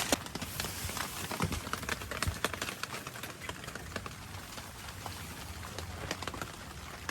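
Freezing rain falling on a tarp shelter and the raft around it: a steady hiss with scattered sharp drops ticking throughout.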